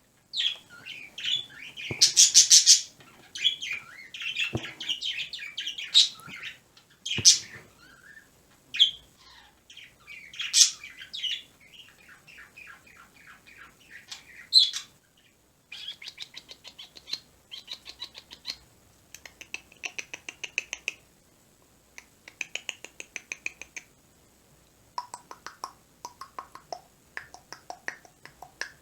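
Pet bird chirping and squawking, then from about halfway on giving runs of rapid clicking chatter, several clicks a second.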